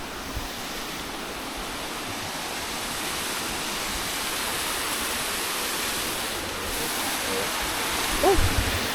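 Steady rush of flowing water, growing slowly louder. A brief voice sound comes near the end.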